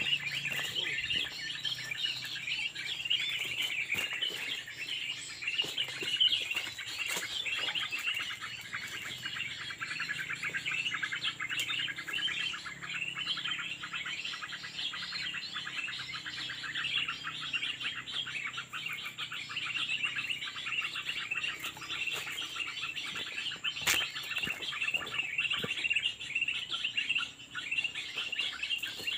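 Small birds chirping and twittering in a dense, continuous chorus, with a fast rattling trill in the middle stretch.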